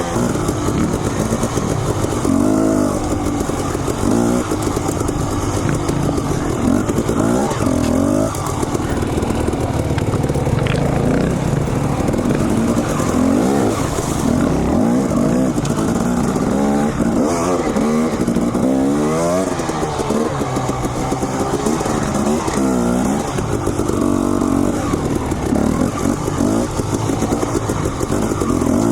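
Dirt bike engine riding a trail, its revs rising and falling again and again as the throttle is worked on and off.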